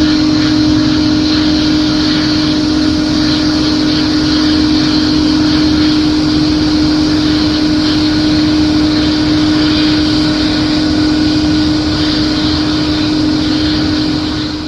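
Jet airliner engines running: a steady, loud rush with a constant hum that fades away at the very end.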